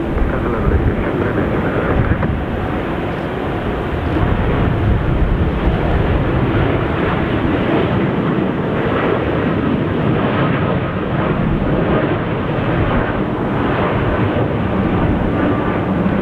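Steady noise of a jet airliner's engines.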